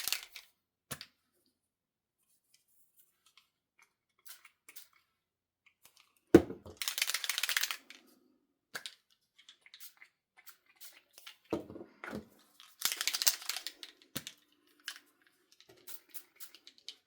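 Two bursts of hissing spray from pump spray bottles of Distress Oxide ink misting onto cardstock inside a splatter box, each lasting about a second. Each is preceded by a sharp knock, and faint small clicks and taps of handling fall in between.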